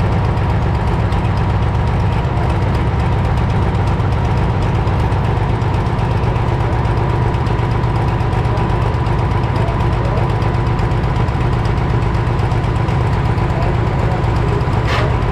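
Limited Prostock pulling tractor's diesel engine idling steadily and loudly, with a short burst of hiss near the end.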